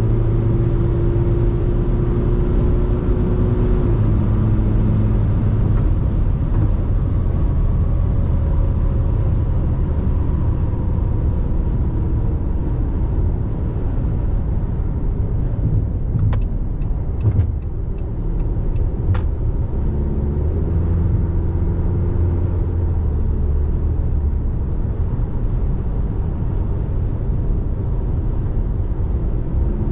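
RAM Rampage Rebel's 2.2 four-cylinder turbo diesel running on the move, its note shifting in pitch about four seconds in and again around twenty seconds. A few sharp clicks come between about sixteen and nineteen seconds.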